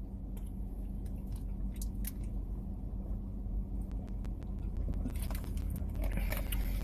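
A person chewing food close to the microphone, with small wet clicks and crackles that get busier near the end, over a steady low hum.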